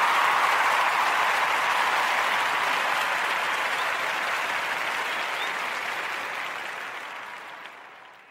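Crowd applause, a dense steady clatter of clapping that fades out gradually over the whole stretch.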